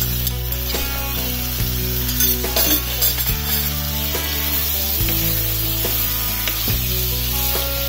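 Chicken masala sizzling in a kadai as green peas are tipped in and stirred through with a spatula. Background music with sustained chords changing about every second and a half plays under it.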